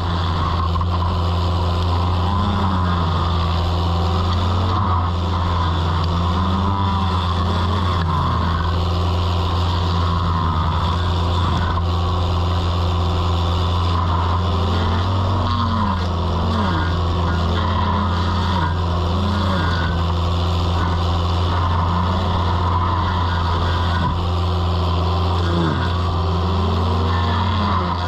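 Toro mini skid steer running steadily with its stump grinder attachment. A steady low drone lies under a whining tone that swells up and falls back every second or two.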